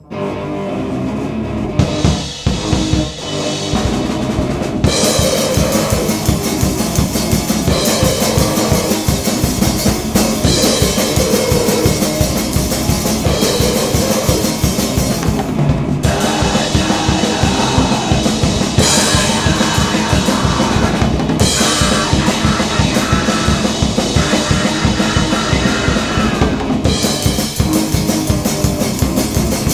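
Grind-noise band playing at full tilt: rapid, dense drumming under a loud wall of distorted sound, switching abruptly between sections several times.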